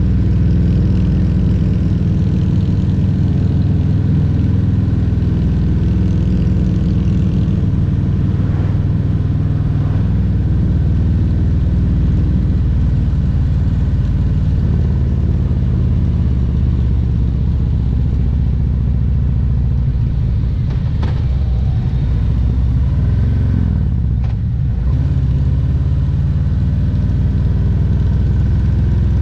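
Harley-Davidson Road Glide Special's Milwaukee-Eight 114 V-twin running on the road, its pitch rising and falling gently with the throttle. It eases off briefly near the end.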